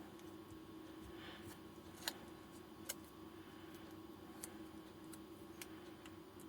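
Faint bench handling noises while barley-paper insulator pieces are laid over battery cell connections: a few sharp light clicks, the loudest about two and three seconds in, and a brief soft rustle before them, over a steady low hum.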